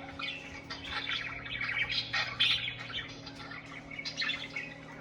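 Budgerigars (parakeets) chattering: a continuous run of short, quick chirps and warbles, over a steady low hum.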